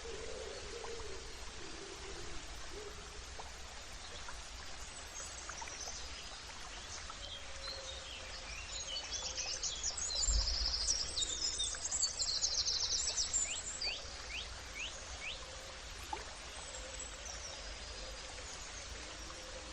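Several birds chirping and singing over a steady background hiss, with a busy stretch of rapid high trills and chirps about halfway through and a few lower calls near the start.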